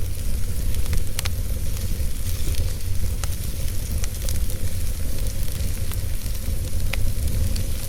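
Wood fire burning in a fireplace: a steady low rumble and hiss with sharp crackles and pops now and then, the clearest a little after a second in and about seven seconds in.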